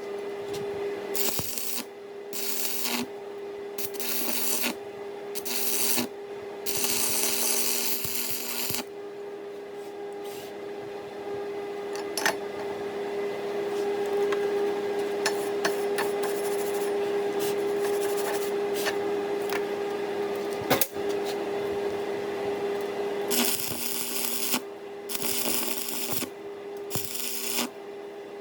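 Electric arc welding: several short spells of crackling arc separated by pauses, mostly near the start and again near the end, over a steady hum.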